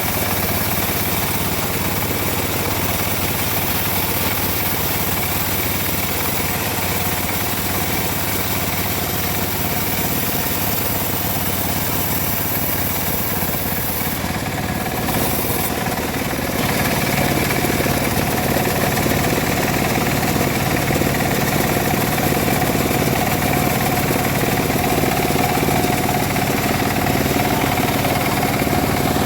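Engine of a homemade bandsaw sawmill running steadily. A little past halfway it briefly changes, then runs louder and fuller.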